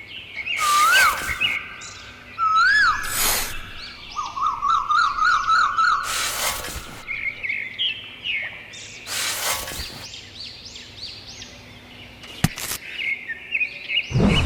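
Birds chirping and singing, with quick rising-and-falling calls and trills. Four short, loud bursts of noise break in at intervals.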